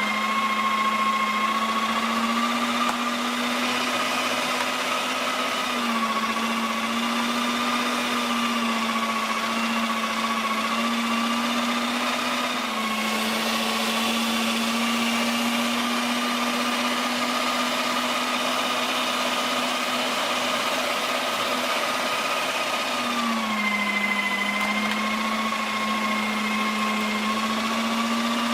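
Cuisinart electric meat grinder's motor running steadily while grinding meat (short ribs) into a coarse grind, a continuous hum whose pitch dips briefly a few times.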